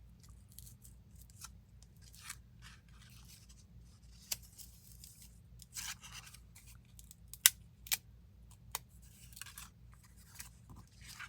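Dried plant material and paper being handled: scattered sharp clicks and short crackling rustles as bits crumble off, with one sharper click about two-thirds of the way through.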